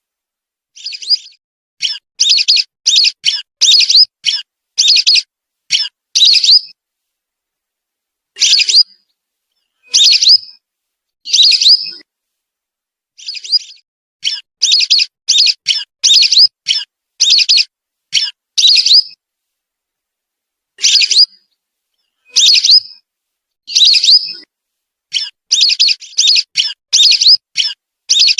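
Lesser whistling duck calls played as a lure recording: short, high, rising whistled notes, several a second in runs, with pauses of one to two seconds between runs. The background between notes is dead silent.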